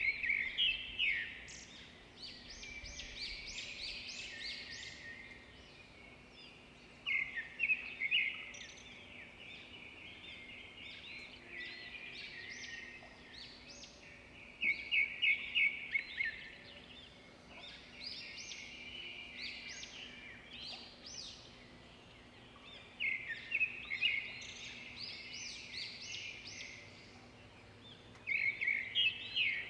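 Birds singing: bursts of fast, high chirping phrases that come back every several seconds, with softer chirping in between.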